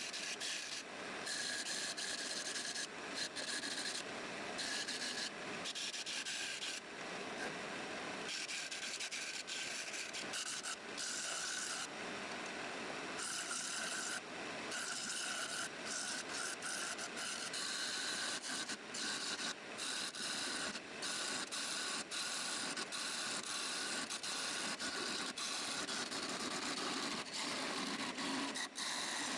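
Abrasive rubbing on the wood of an old wardrobe, going on steadily with short pauses now and then.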